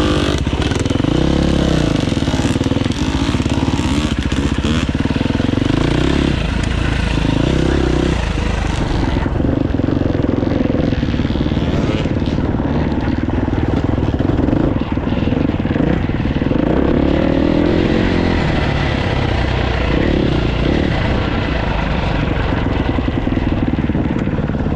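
Dirt bike engine running under load, its pitch rising and falling again and again as the rider works the throttle.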